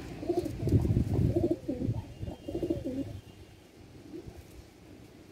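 A bird cooing in a few low, wavering phrases during the first three seconds, then stopping.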